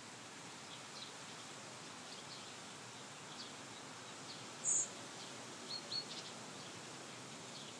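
Small birds chirping: scattered short, high chirps over a faint steady hiss, with one louder, very high chirp a little past halfway.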